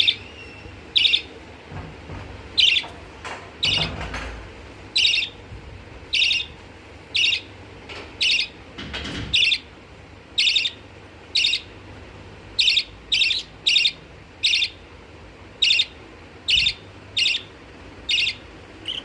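Pet budgerigar giving short, sharp chirps over and over, roughly one a second, each call much the same.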